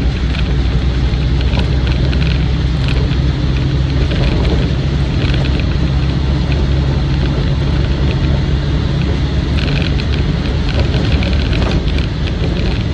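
Inside the cab of a Land Rover Defender 90 on the move: its 300Tdi 2.5-litre four-cylinder turbo-diesel drones steadily under tyre noise from military tyres, with frequent light rattles from the door and windows.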